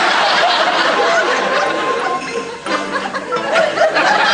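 Studio audience laughing, with music playing under it.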